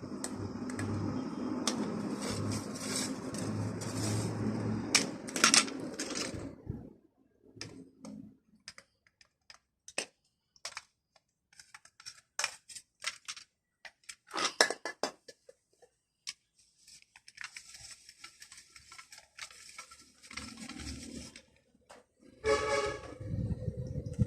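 A vehicle running that fades away after about six seconds, followed by scattered light clicks and taps of small metal parts and tools being handled, with a louder clatter near the end.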